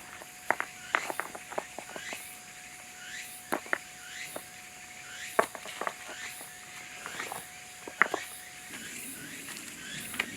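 Outdoor forest ambience: a chirping call that dips and rises in pitch repeats over and over, with irregular sharp clicks and knocks on top. A faint steady hum runs underneath and stops near the end.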